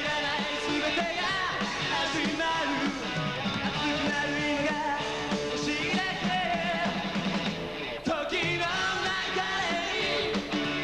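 A rock and roll band playing live, with a singer and electric guitars.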